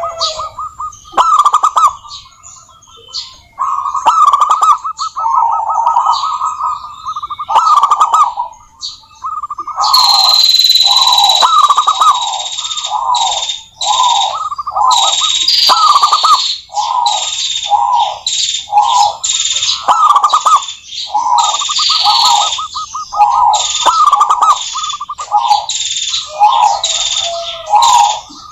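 Zebra doves (perkutut) singing: a steady run of short, fast-trilled cooing notes repeated every half second or so. From about ten seconds in, a higher hissing, rasping sound with a slowly falling whistle-like tone runs alongside the coos.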